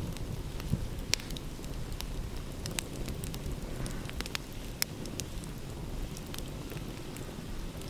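Wood fire crackling, with scattered sharp pops, over a low steady rumble of ocean waves.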